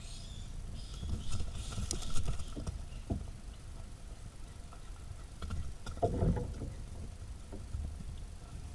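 Outdoor ambience on a trail camera's built-in microphone: a steady low rumble with scattered rustles and clicks, and a short louder rustle about six seconds in.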